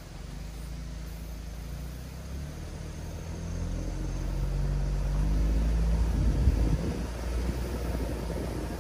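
Mitsubishi Delica D:5's 2.2-litre clean diesel engine running as the vehicle drives, its pitch and loudness rising for a few seconds as it pulls harder, peaking about two-thirds of the way through, then easing off.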